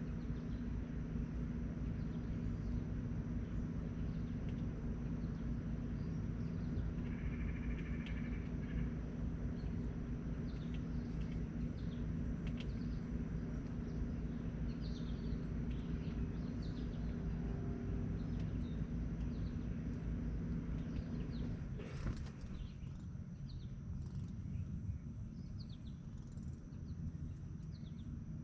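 Small birds chirping with short, high calls over a steady low mechanical hum. About two-thirds of the way through there is a sharp click, and the hum drops and changes after it.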